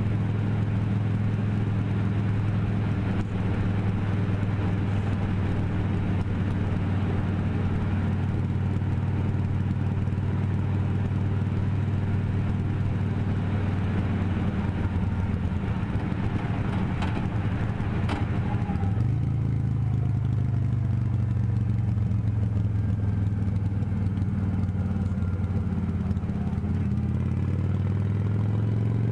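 Motorcycle engine running at steady revs while riding, with road and wind noise. The engine note rises a little about two-thirds of the way in and changes again near the end.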